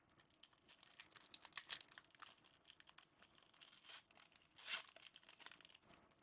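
A trading card pack's wrapper being torn open and crinkled by hand, in a run of short crackling rustles, loudest near the end.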